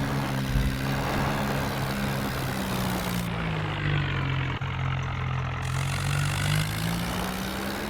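Swaraj tractor's diesel engine running steadily; its pitch sags in the middle and climbs back near the end.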